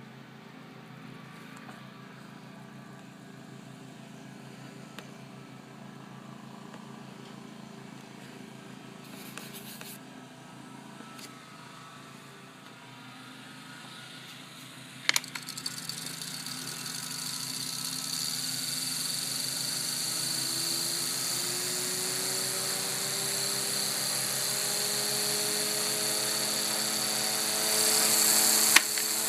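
Aloha Breeze 7-inch table fan switched on with a click about halfway through: its small motor's hum rises in pitch over a few seconds as the blades spin up, then runs steadily with a hiss of moving air. Before the switch there is only a faint steady hum; another sharp click comes near the end.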